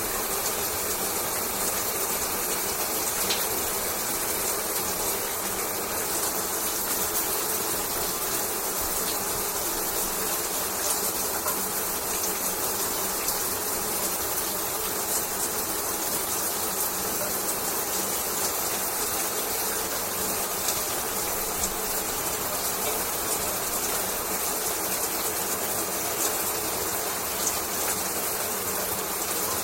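Shower running: a steady hiss of water spray falling, even and unbroken, with faint scattered droplet ticks.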